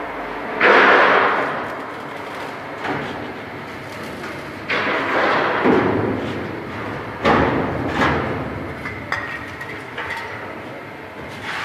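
A series of knocks and clatters: loud hits about a second in, about five seconds in and about seven seconds in, each trailing off over about a second, with lighter knocks between.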